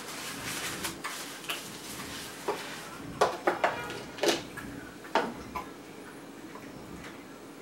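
Close-miked eating sounds from chewing chicken wings: crackly chewing, with several sharp clicks between about three and five and a half seconds in.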